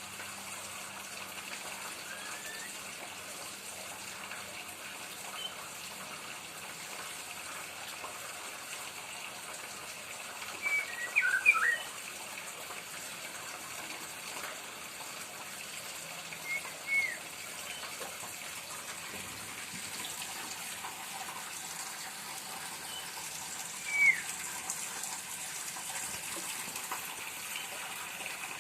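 White-rumped shama (murai batu) giving a few short chirps, three brief clusters spaced several seconds apart, the loudest a little before halfway, over a steady hiss.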